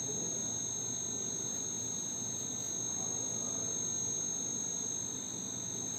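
Crickets trilling steadily at a high pitch, over faint low background noise.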